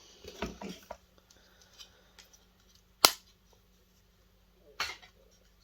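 Light handling of loose parts, then two sharp clacks about a second and a half apart, the first the louder, as stripped projector pieces are dropped onto a hard surface.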